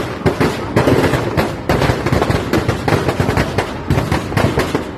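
Firecrackers packed inside a burning Ravana effigy going off in a dense, rapid string of sharp cracks and bangs without a break.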